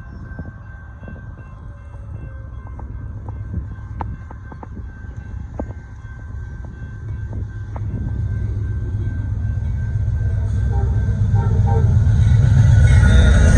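Amtrak Texas Eagle passenger train approaching the grade crossing, its diesel locomotive rumbling louder and closer over the last several seconds, with a few sharp clicks earlier on.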